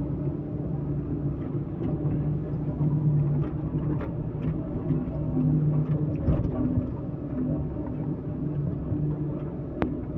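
Heavy vehicle engine running steadily, its low note swelling and easing a little, with a few faint clicks and one sharp tick near the end.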